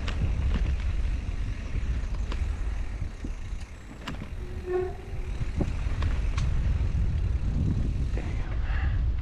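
Mountain bike rolling over dirt singletrack with its motor off: a steady rumble of wind and tyres on the mic, with scattered clicks and rattles of the bike over the trail, and a short squeak about halfway.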